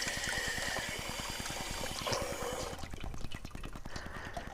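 Water pouring and splashing into a dog's water bowl, the stream tapering off about three seconds in.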